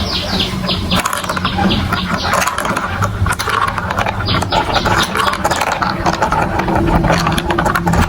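Marbles rolling and clattering through a plastic building-block marble run: a steady rumble over dense, rapid clicks, with bursts of quick clacks near the start and again about halfway through.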